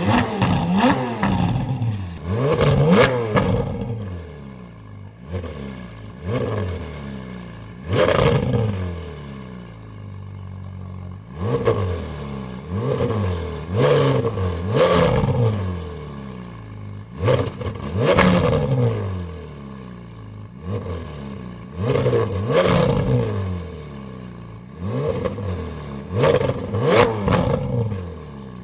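Ferrari 458's V8 through an Akrapovic titanium catalytic converter and exhaust, revved in short sharp blips a dozen or more times, each rev climbing quickly and falling back to a steady idle between.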